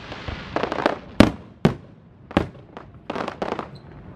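Aerial firework shells bursting: four sharp booms, the loudest a little over a second in, with stretches of crackling between them.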